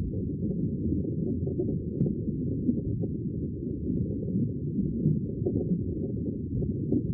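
Sea water making a steady, deep, muffled rumble with no high hiss and no separate waves breaking, only faint small clicks within it.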